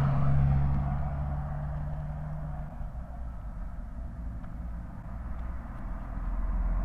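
A car engine running close by, its steady hum fading out after about two and a half seconds. A deeper low engine rumble swells up near the end.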